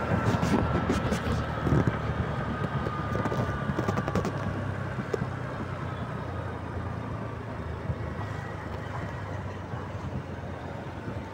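Bajaj Platino 110 motorcycle's single-cylinder four-stroke engine running while being ridden, with road and wind noise. A faint high whine slowly falls in pitch over the first few seconds, and the sound gets gradually quieter.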